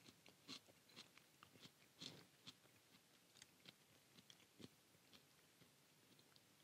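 Faint chewing of a bite of salmon wrapped around jalapeño and red onion: soft, irregular clicks and smacks of the mouth.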